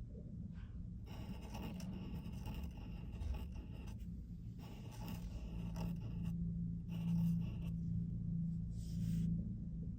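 A pen drawing on paper in several scratchy strokes, each lasting one to two and a half seconds, with a shorter stroke near the end. A steady low hum runs underneath.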